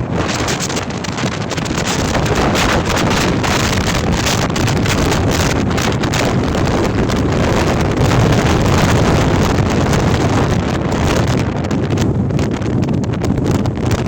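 Gale-force storm wind buffeting the microphone: a loud, continuous rush with a heavy low rumble, surging slightly about eight seconds in.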